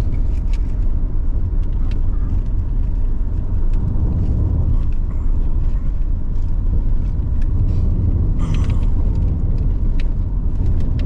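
Car driving, heard from inside the cabin: a steady low road and engine rumble with scattered light clicks and rattles, and a brief hiss about eight and a half seconds in.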